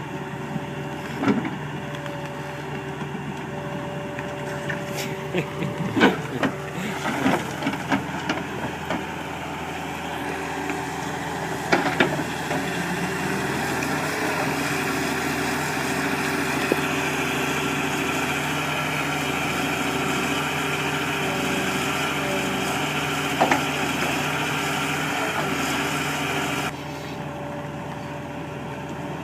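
Heavy machine's engine running steadily, with several sharp knocks and clanks. A louder rushing noise builds in from about the middle and cuts off suddenly near the end.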